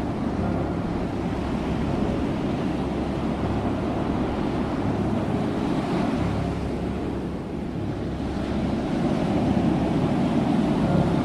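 Ocean surf: waves washing in as a steady rush, swelling about halfway, easing off, then building again near the end, with wind rumbling on the microphone.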